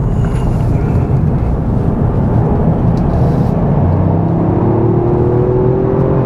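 Toyota GR Yaris's 1.6-litre turbocharged three-cylinder engine and road noise heard inside the cabin. The note is steady at first, then rises from about four seconds in as the car accelerates.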